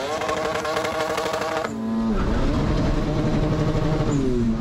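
Drag-racing car engines held at high revs in short shots: a steady high engine note with a rapid crackle over it. Less than two seconds in it gives way abruptly to a lower held note, which rises near the end.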